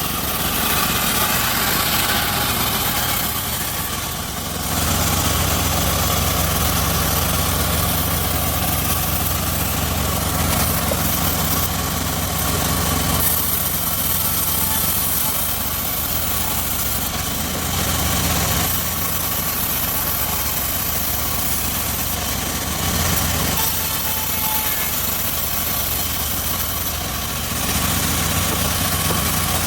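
Homemade circular-saw rig running steadily on its engine, the low note shifting every few seconds.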